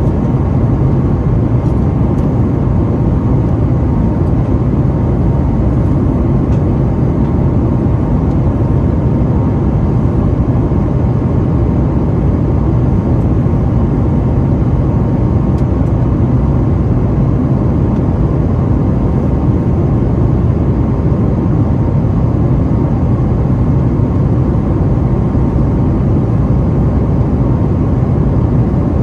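Steady cabin noise inside a Boeing 737-900ER in flight: an even, low rumble of airflow and the CFM56-7B turbofan engines, unchanging throughout.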